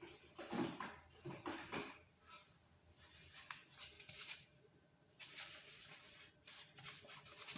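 Quiet kitchen handling noises: a few light knocks in the first two seconds, then stretches of rustling.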